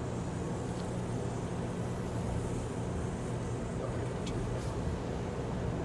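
A car's engine idling in neutral, a steady low rumble heard from inside the cabin as the car sits on a car wash conveyor, with a few faint ticks.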